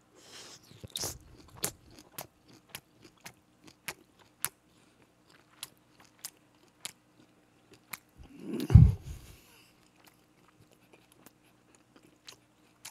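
Close-miked chewing of a perilla-leaf wrap of grilled spicy pork: a string of sharp wet mouth clicks and smacks, about two a second. About two-thirds of the way in comes one loud, low, breathy sound right at the microphone.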